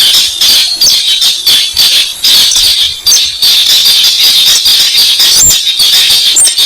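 Recorded lure call of the weris (buff-banded rail): a loud, unbroken, shrill chattering of rapid clicks with squawky notes.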